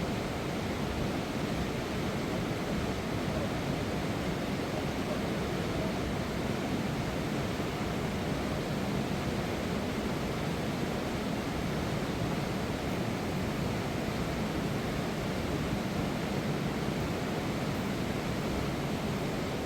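Fast mountain river rushing over rocks: a steady, unbroken roar of water.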